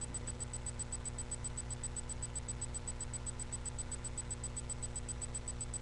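Steady electrical hum and hiss from a webcam's built-in microphone, with a faint high-pitched ticking repeating about six times a second.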